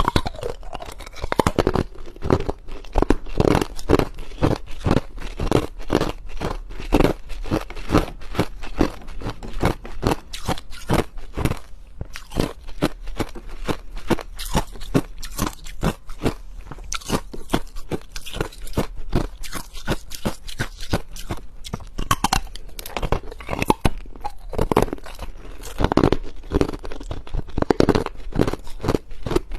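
Close-miked crunching and chewing of ice, a rapid irregular run of crackling bites that goes on without a break.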